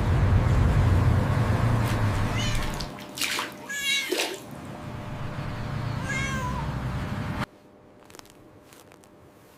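A cat meowing three times over a steady rushing noise, which cuts off about three-quarters of the way through.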